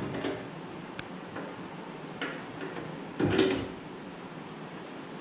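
Scattered clicks and knocks of tools and parts being handled under the hood. The loudest is a rattling clatter a little past three seconds in.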